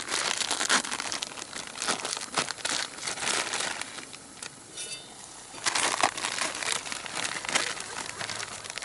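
Plastic packaging being crinkled and rustled in quick bursts, with a short lull about four seconds in.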